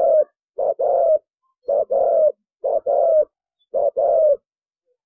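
Spotted dove cooing in a run of two-part coos, a short note then a longer one, about one a second, stopping near the end.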